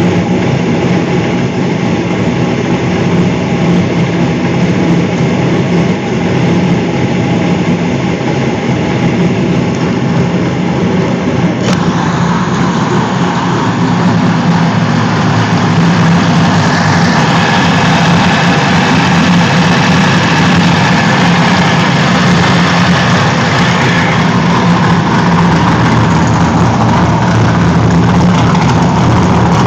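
Freshly built 545 cubic-inch big-block Ford V8 in a Mustang running steadily at idle on its first start-up, getting a little louder about halfway through.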